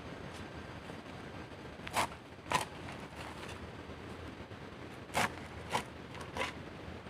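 Several short, sharp scraping clicks, in two groups about half a second apart, over a steady low hiss.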